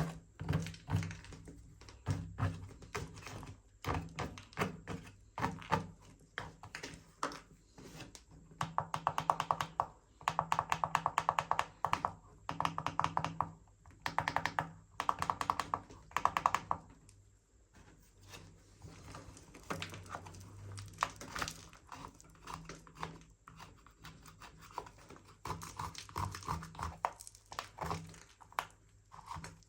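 Plastic R/C toy remote controller being handled and cleaned: scattered taps, clicks and knocks of hard plastic. A dense run of rapid clicking starts about a third of the way in and lasts several seconds.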